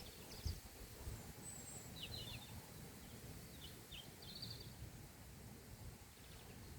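Quiet outdoor ambience: a faint low rumble of wind on the microphone, with distant birds giving several short, high chirps.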